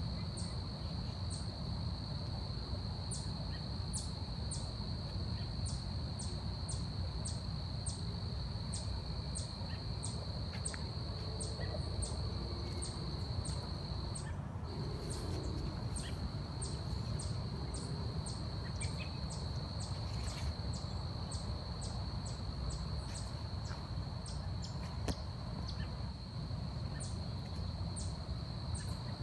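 Forest ambience: a steady, high-pitched insect drone that drops out briefly about halfway, with short high chirps repeating about twice a second, over a low rumble.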